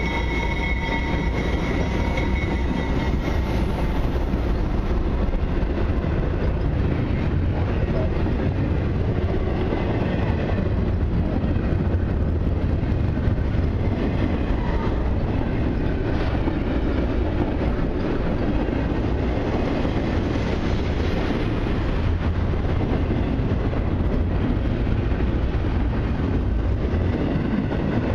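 Long intermodal freight train rolling past: a steady rumble and rattle of steel wheels on the rails and the cars going by. A high ringing squeal fades out in the first few seconds.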